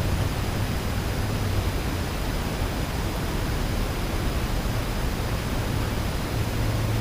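Steady outdoor background noise, an even hiss with a low hum underneath that grows stronger near the end.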